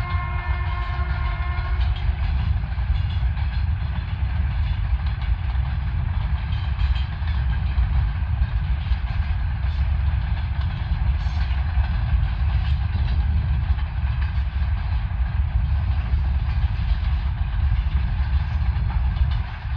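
Heavy freight train running with a steady low rumble. A locomotive horn sounding a held chord of tones cuts off about two seconds in.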